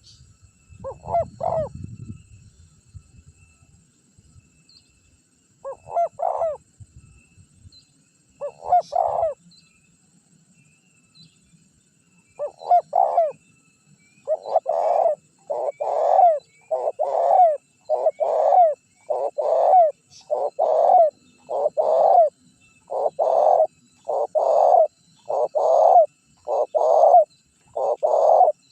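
Spotted dove cooing: a few phrases spaced several seconds apart, then a steady run of coos about once a second.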